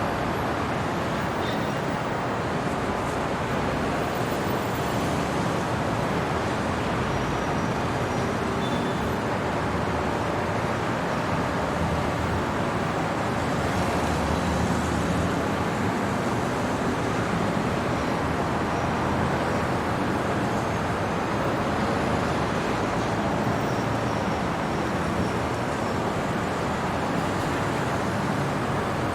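City traffic at night, a steady hum of road vehicles with no single one standing out.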